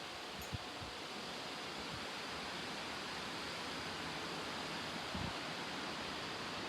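Strong thunderstorm wind rushing steadily through trees, with a couple of brief low thumps.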